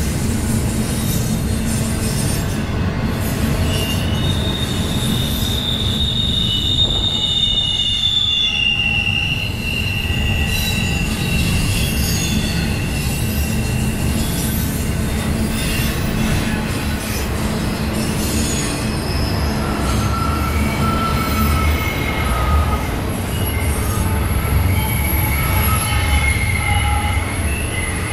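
Double-stack intermodal freight train rolling past: a steady rumble of steel wheels on the rail, with high, thin wheel squeals that come and go over it.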